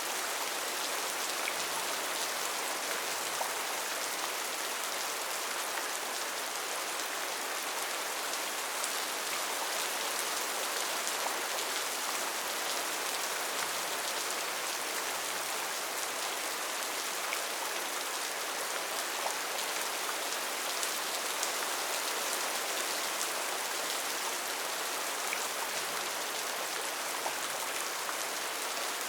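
Steady rain falling in a rainforest, a dense patter of drops on leaves and surfaces with no thunder.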